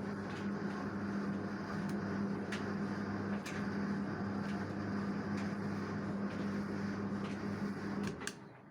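LG direct-drive washing machine running with a steady hum and a few light clicks, cutting off suddenly near the end.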